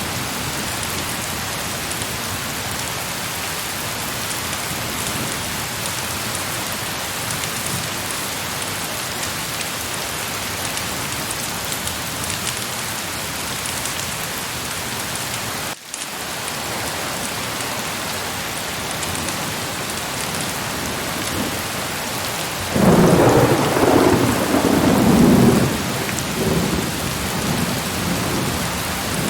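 Heavy rain falling in a steady hiss, with a momentary drop-out about halfway through. Near the end a loud roll of thunder rumbles for about three seconds and then fades back under the rain.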